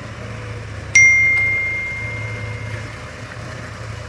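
A tractor engine idling steadily. About a second in, a single sharp metallic clang that rings on as one clear tone and fades over a couple of seconds.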